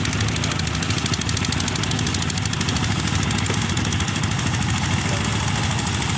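Fishing boat's inboard engine running steadily, with a rapid, even chugging beat.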